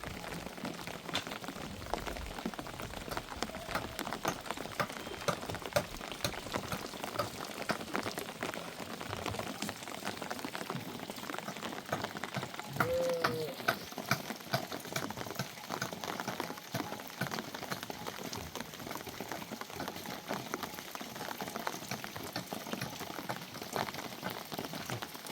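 Rain pattering densely on a surface: a steady hiss full of many sharp individual drop hits. A short pitched call cuts through about halfway.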